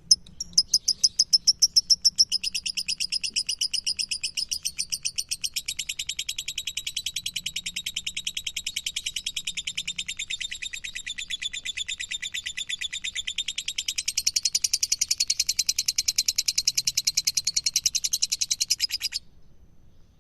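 Lovebird 'ngekek' song: one long unbroken chatter of rapid, high repeated notes, about ten a second. It goes on for some nineteen seconds, swells louder a little past the middle, and cuts off suddenly near the end.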